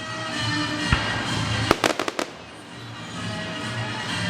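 Fireworks going off: a single sharp bang about a second in, then a quick run of four cracks around two seconds in.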